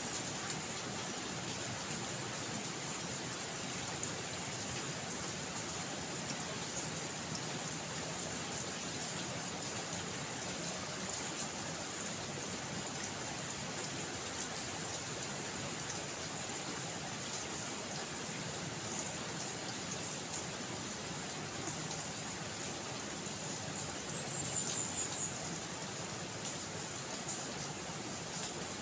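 Steady rain falling, an even hiss with scattered drop taps. A brief high chirp sounds near the end.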